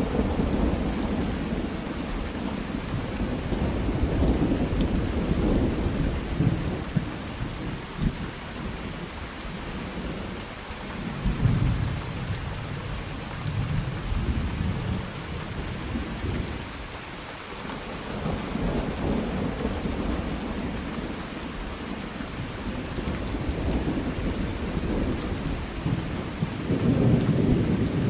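Thunderstorm: steady rain hissing on a surface, with thunder rumbling low and swelling several times and a few short sharp cracks, the biggest rumbles near the start and near the end.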